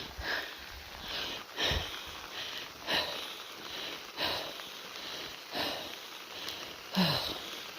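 A walker's breathing in the rain, one breath about every second and a third, over a steady hiss of rain.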